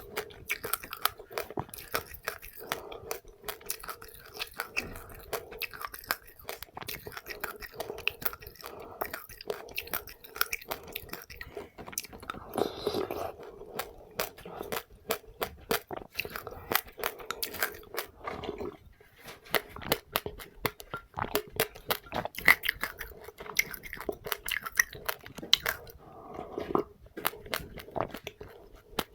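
A person chewing and crunching seeds, passionfruit pulp eaten with sesame and flax seeds: a steady run of sharp little crunches and crackles, several a second.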